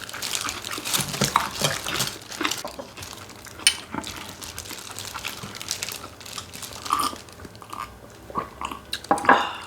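Close-miked chewing and crunching of chicken, with crisp, quick clicky bites that come thickly at first and then thin out.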